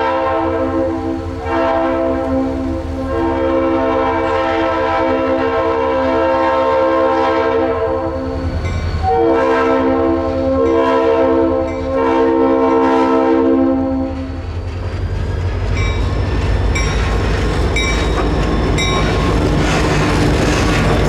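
Leslie RS3L multi-chime air horn on EMD GP30 locomotive 2198 blowing several long blasts, then stopping about two-thirds of the way through. The train then rolls on with a low engine rumble and the regular clicking of wheels over rail joints.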